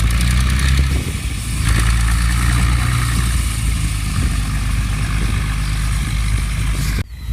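Tractor engine running steadily. It dips briefly about a second in, then cuts off suddenly near the end.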